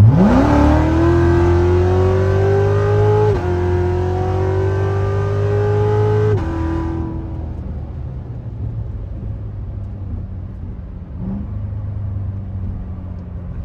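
Supercharged LT4 V8 of a C7 Corvette Z06 with a BTR stage 2 camshaft accelerating hard at full throttle, revs climbing with two sudden drops like upshifts about three and six seconds in. The throttle then closes and the engine falls back to a low rumble.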